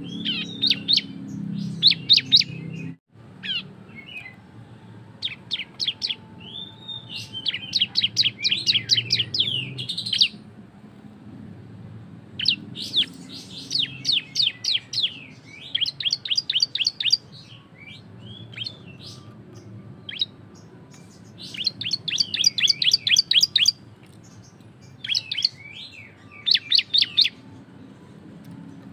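A prinia (ciblek) sings its loud 'ngebren' song: bursts of fast, sharp, high notes, each burst a rapid rattling run lasting one to two seconds, repeated after short pauses. A faint low hum runs underneath.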